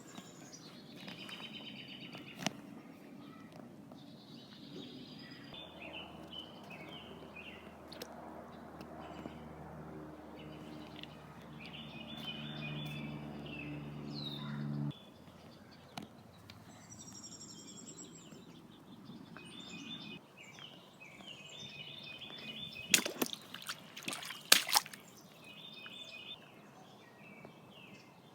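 Birds singing outdoors in repeated short chirping phrases. A low steady hum builds from about five seconds in and cuts off suddenly around the middle, and a few sharp knocks come near the end.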